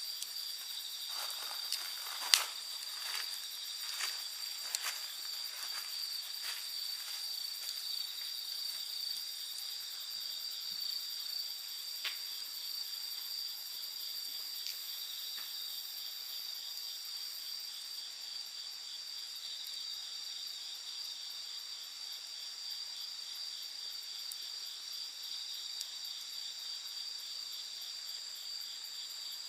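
Wood campfire crackling, with several sharp pops in the first few seconds and one near the middle, over a steady chorus of insects trilling at high pitch throughout.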